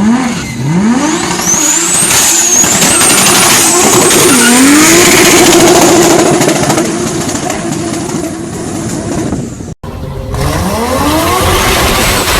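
Turbocharged car engine revving hard, with a high whistle rising and wavering above it. The sound cuts off abruptly about ten seconds in, and another engine then revs up.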